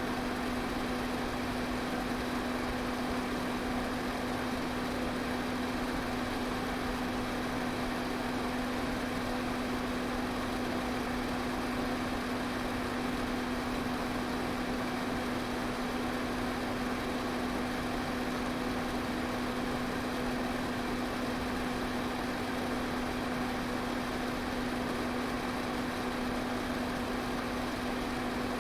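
Electric fan running steadily: a constant motor hum over an even rush of moving air, unchanging throughout.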